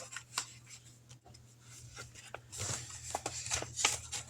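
Paper money and envelopes being handled on a table: soft rustling and small taps, mostly quiet at first and busier from about halfway through.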